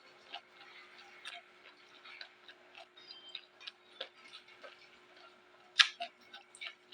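Close-up chewing of raw vegetables: a run of small, irregular crunching clicks, with one louder crunch near the end.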